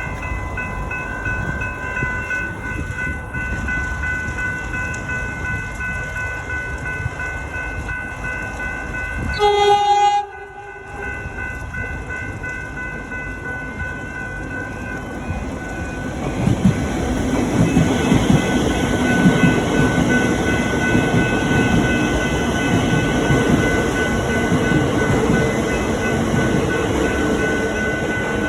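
A train horn blasts once for about a second. From about sixteen seconds in, a suburban train passes, a louder rumble of wheels on rails that lasts to the end; before the horn there is a steady high whine.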